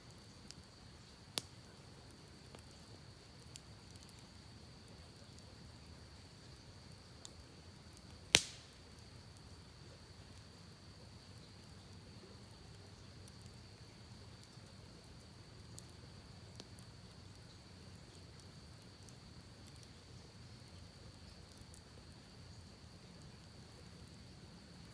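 Wood campfire crackling faintly with scattered small pops and one loud, sharp pop about eight seconds in. Underneath runs a steady low rush from the creek and a faint, steady high tone.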